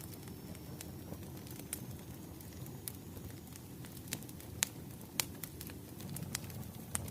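Wood fire crackling: irregular sharp pops over a low, steady rumble of burning, with two louder pops a little past the middle.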